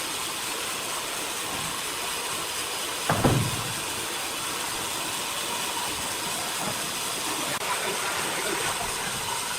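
Sawmill machinery running with a steady hissing noise, and one heavy thump about three seconds in.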